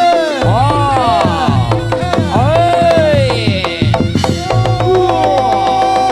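Reog ensemble music: a bending, wailing melodic lead over hand-drum strokes and low steady gong-like tones.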